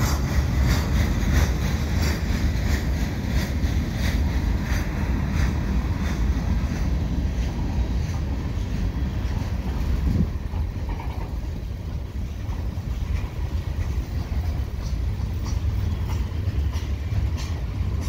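Freight cars of a slow-moving train rolling past close by: a steady low rumble with quick, regular clicking of the wheels over the rail, the clicking thinning out about seven seconds in.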